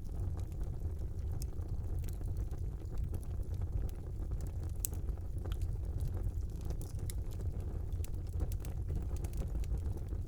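Wood fire burning in a fireplace: a steady low rumble of the flames with scattered small crackles and pops, one sharper pop about halfway through.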